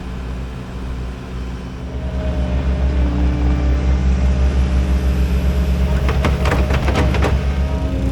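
An engine running steadily, growing louder about two seconds in. Near the end comes a quick run of sharp clattering knocks.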